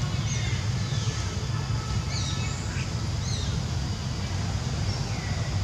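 Several short, high chirping bird calls, quick up- and down-sweeping notes a second or so apart, over a steady low rumble.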